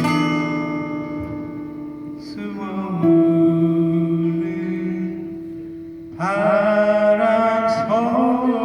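Acoustic guitar music with a sung melody: long held notes ring and fade, then the guitar is strummed again about six seconds in.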